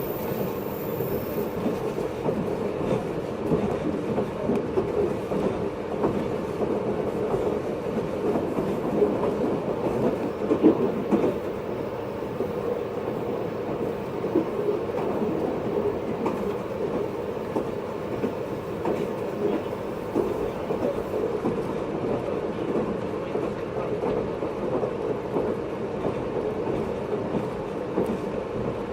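Running noise heard inside a 583-series electric train car, MoHaNe 582-106, as it travels: a steady noise of wheels on rail and running gear, with a brief louder moment about ten seconds in.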